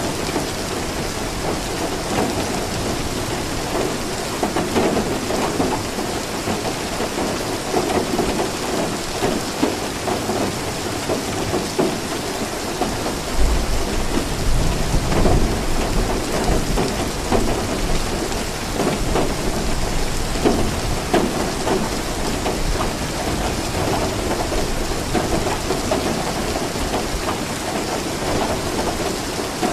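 Steady rain falling, an even hiss and patter, with a low rumble of thunder about halfway through.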